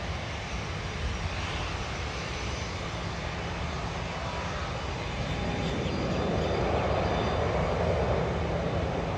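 Bombardier Global business jet's twin turbofan engines running, a steady rumble and hiss that swells louder about two-thirds of the way through.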